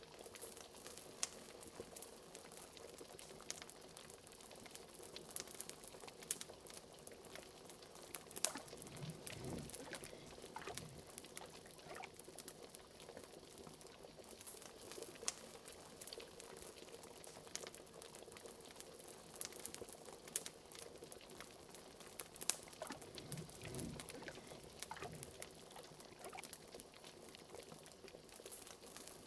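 Liquid bubbling steadily at a boil in a pot, with many small pops and crackles throughout and a few deeper glugs about nine seconds in and again about 24 seconds in.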